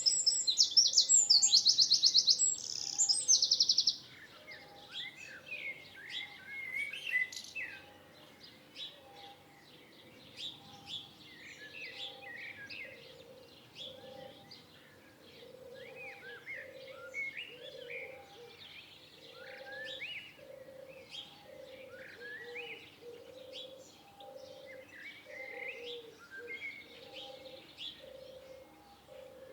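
Mixed wild birds singing and chirping. A loud, fast, high trill fills the first few seconds and stops abruptly about four seconds in. After it, many quieter short chirps continue over a low call that repeats about once a second.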